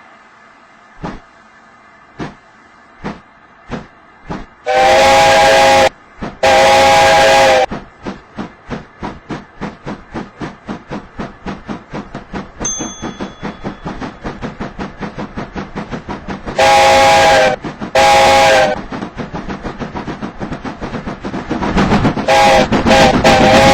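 LMS Black 5 two-cylinder 4-6-0 steam locomotive working hard. Its exhaust beats quicken from about one a second to a fast steady chuff as it gathers speed. It sounds its whistle in two long blasts twice, then several short blasts near the end.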